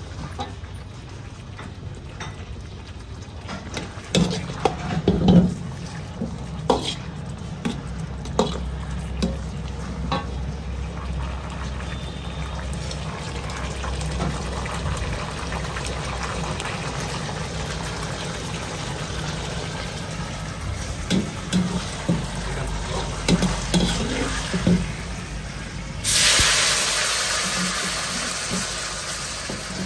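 Food frying and sizzling in a hot wok, with a metal ladle knocking and scraping against it as it is stirred. About 26 s in, a sudden loud hiss flares up and dies away over the last few seconds.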